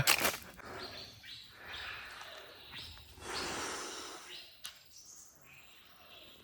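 Rainforest ambience: insects and birds calling, heard as patches of hiss that start abruptly and swell and fade, with one sharp click near the middle.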